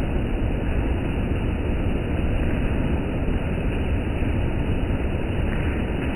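Steady rain falling, an even rushing noise without breaks.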